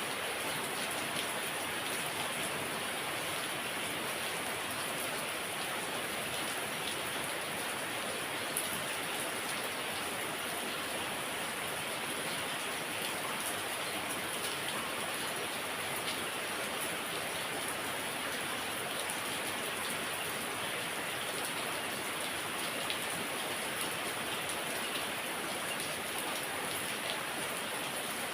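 Heavy rain falling steadily: a dense, even hiss of rain with a few faint drop ticks.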